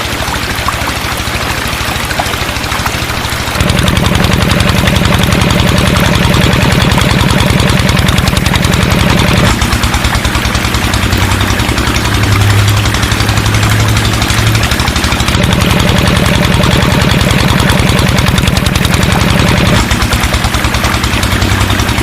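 Small motor of a homemade miniature tractor running steadily with a fast pulsing beat. It gets louder and deeper about three and a half seconds in, eases back near the middle, and picks up again towards the end, as its load changes.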